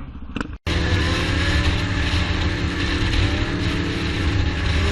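A short click and a moment's dropout, then a motor vehicle's engine running steadily with road noise, its pitch gliding slowly up and down.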